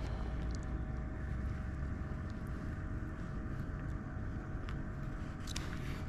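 Steady low rumble and hum of a motorboat engine running at a distance, with a few faint clicks about five and a half seconds in.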